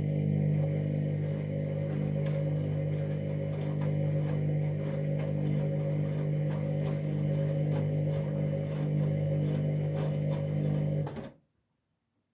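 Candy washing machine's motor turning the drum through a wash tumble: a steady hum that stops about a second before the end.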